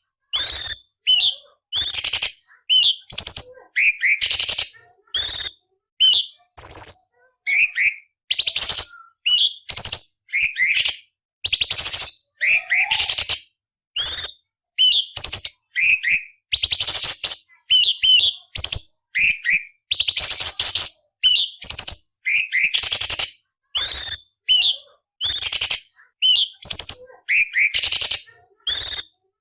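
Orange-bellied leafbird (cucak cungkok) singing a rapid string of short phrases, sharp whistled notes mixed with harsh, rasping buzzes, each lasting under a second with brief pauses between.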